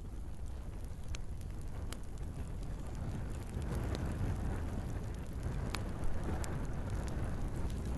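Wood fire burning in a fireplace: a steady low rumble of flames with a few sharp crackles and pops scattered through, and a rise in hissing flame noise around the middle.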